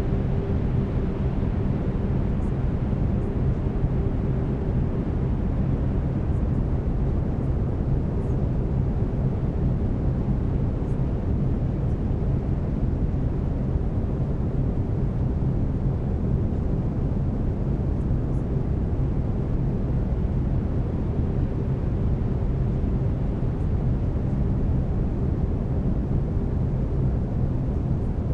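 Steady brown noise: an even, deep rumbling hiss with most of its weight in the bass, unchanging throughout. Faint steady low tones sit inside it, the binaural-beat tones of the track.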